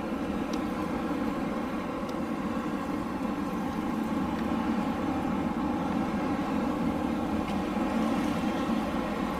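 Wind blowing with a steady, low rush, even and without gusts.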